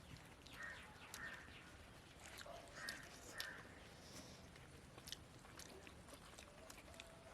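Near silence with a few faint bird calls, two pairs of short calls, and scattered small clicks.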